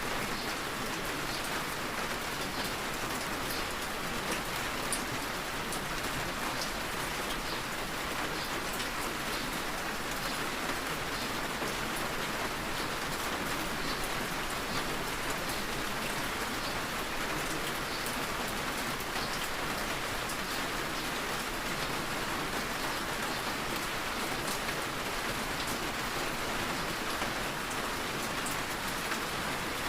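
Steady rainfall: an even, continuous hiss with scattered small sharp drop ticks.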